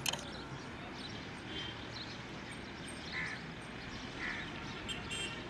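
Open-air background hum with scattered short bird calls, and a brief click at the very start.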